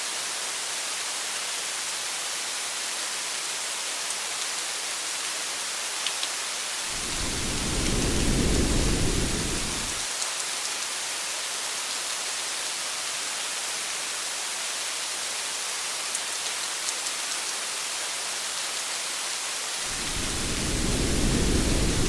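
Steady rain on a car, a constant hiss with a few scattered drop ticks. Two low rolls of thunder, about seven seconds in and again near the end, each lasting about three seconds.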